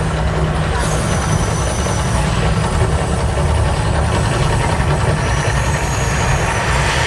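The Mirage volcano erupting: a loud, steady deep rumble with a roaring noise over it that does not let up.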